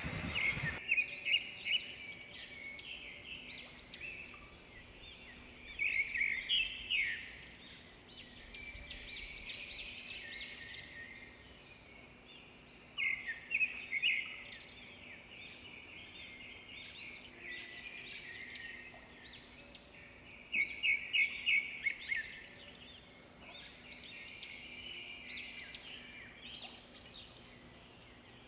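Several birds calling in a forest, with short chirping phrases throughout and louder runs of rapid repeated notes three times, about seven seconds apart.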